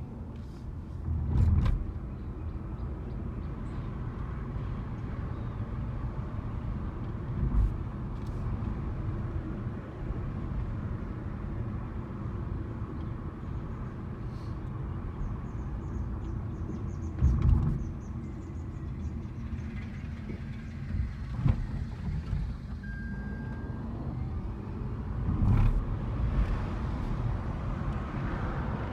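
Car on the move: a steady low road and tyre rumble, broken by a few short, loud low thumps.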